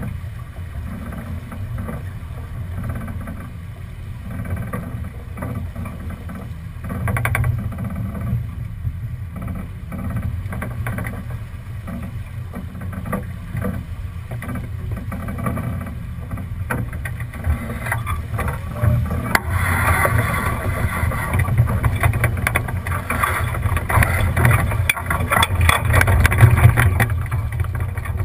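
Sailboat under way recorded on a GoPro: wind buffeting the microphone as a steady low rumble, with water rushing and splashing along the hull. The water noise grows louder about two-thirds of the way in.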